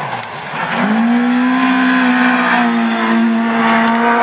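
Rally car engine at high revs on a gravel stage. A steady, strongly pitched note comes in about a second in and holds, dipping slightly near the end, after an opening of gravel and tyre hiss.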